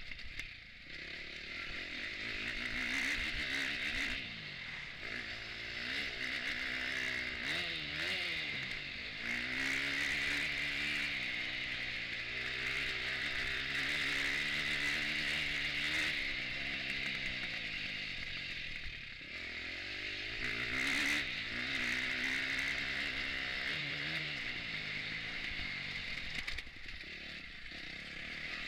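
KTM 250 four-stroke motocross bike heard from onboard, ridden hard: the engine revs rise in pitch through each gear and fall back when the throttle is shut, dropping away about a second in, again past halfway and near the end. Knocks and clatter from the bumps run through it.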